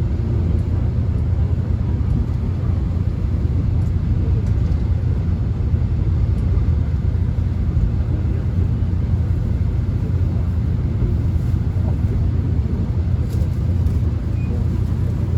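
Inside a moving subway car: a steady low rumble of the train running on the rails, with an even hiss over it.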